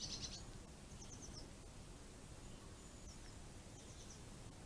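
Faint, short high chirps from a small garden bird, coming in brief bursts of a few notes several times, over a steady low background hiss and rumble.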